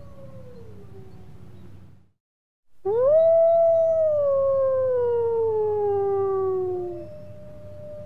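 Wolf howling: a long howl fades out about two seconds in, then after a short silence a loud howl rises and slowly falls in pitch for about four seconds, and another softer howl begins near the end.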